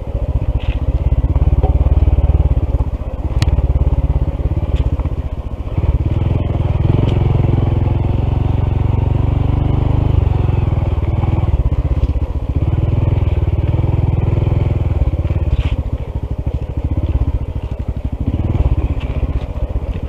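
Honda CT125's single-cylinder engine running under load on the motorcycle, its level rising and falling, with a few brief clicks.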